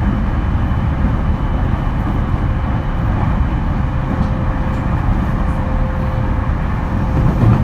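Interior running noise of a JR East E231 series electric train at speed: a steady rumble of wheels on the rails with a faint steady whine, and a single low thump near the end.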